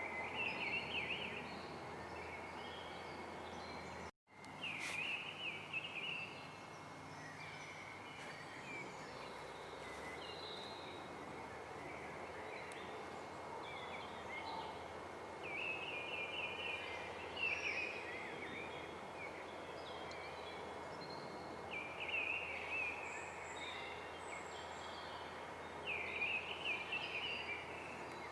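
Songbirds singing in short, quick twittering phrases every few seconds over a steady outdoor hiss. The sound drops out completely for an instant about four seconds in.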